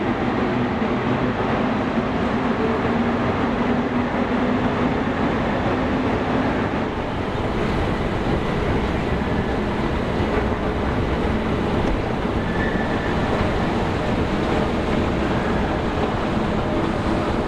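Passenger train running, heard from inside the carriage: a steady rumble of wheels and track with a faint low hum, unbroken throughout.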